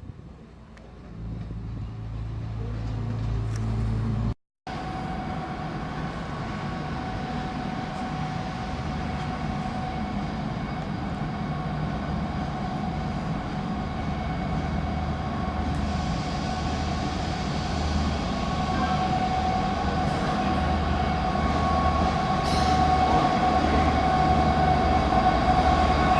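Diesel train running at the station, a steady whine over a low pulsing engine throb, growing gradually louder. There is a short break about four and a half seconds in.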